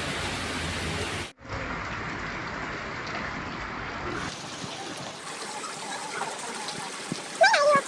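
Steady rain pouring down, an even hiss of falling water, which cuts out for an instant just over a second in and then carries on. A short high gliding call sounds briefly near the end.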